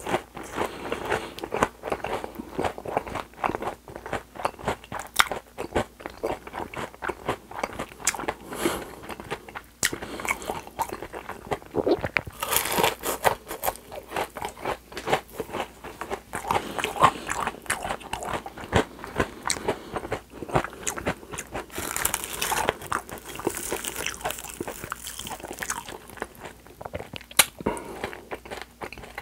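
Close-miked biting and chewing of crispy deep-fried breaded shrimp: a continuous run of sharp crunches and crackles, louder in bursts as he bites.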